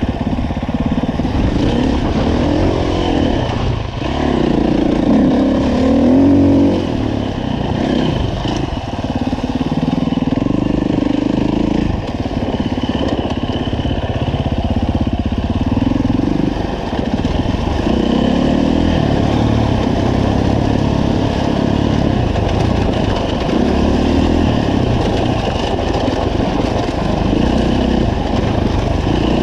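2015 Husqvarna FE 350 dirt bike's four-stroke single-cylinder engine under way, its pitch rising and falling over and over as the throttle is opened and closed.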